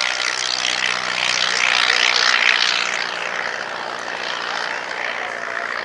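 Vintage light aircraft's piston engine and propeller running at full power as it flies past, swelling to its loudest about two and a half seconds in and then easing off.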